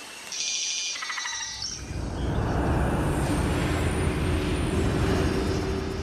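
A bird gives a rapid, buzzing trill for about a second and a half. Then a steady low rumbling drone with a few held tones comes in and grows louder.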